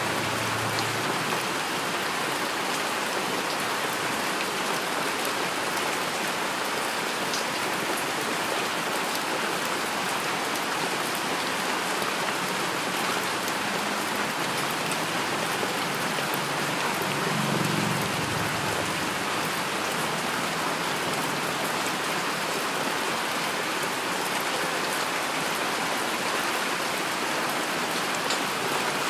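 Heavy rain falling steadily, an even hiss of drops, with a brief low rumble a little past halfway.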